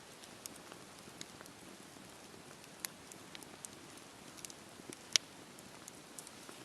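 Campfire burning: a soft steady hiss with scattered sharp crackles and pops, the loudest about five seconds in.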